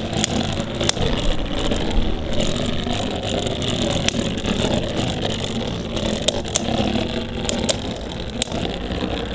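Two Beyblade spinning tops, a 3D-printed Quasar Galahad and a ChoZ Spriggan, whirring and grinding against each other in battle, with frequent sharp clicks as they collide.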